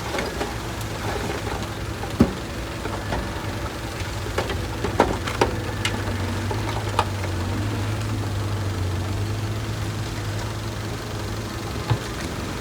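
Diesel engine of heavy earthmoving equipment running steadily with a low hum, with a few sharp knocks or clanks, the loudest about two seconds in and around five seconds in.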